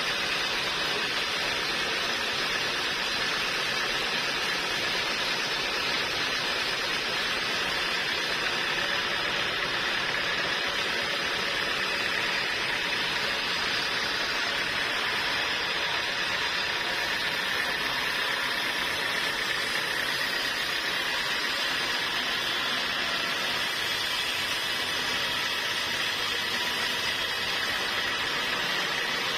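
Sawmill machinery running with a steady, even noise and a faint steady whine, unchanging throughout.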